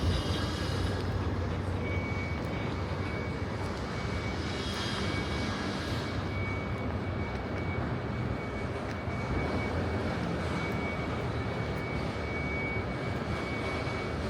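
Steady low rumble of outdoor city noise, with a thin, steady high whine that starts about two seconds in.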